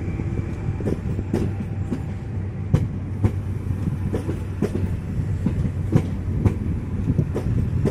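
PKP Intercity electric multiple unit rolling past along the platform: a steady rumble from the running gear, with the wheels clicking over rail joints about twice a second.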